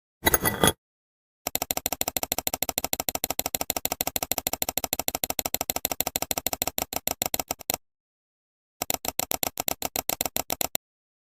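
A rapid run of even, machine-like clicking that starts and stops abruptly, with dead silence between the stretches.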